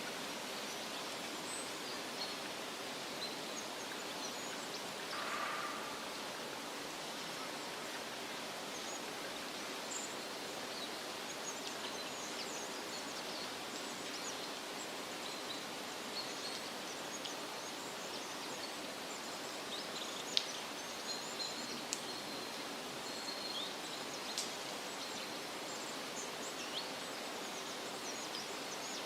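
Steady wind rustling through leafy trees, with small birds giving short, faint chirps here and there; the chirps come more often and sharper in the second half, and one brief louder call sounds about five seconds in.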